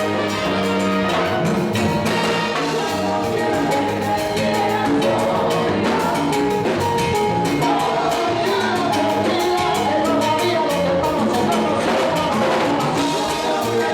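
Live salsa orchestra playing a romantic salsa number: band and percussion over a steady dance beat.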